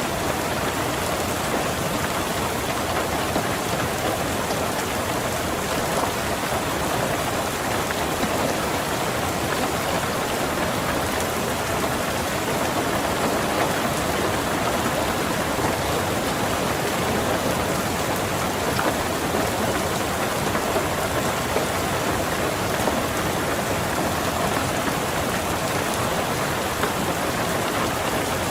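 Steady rain falling on a car, heard from inside the cabin: an even, unbroken patter.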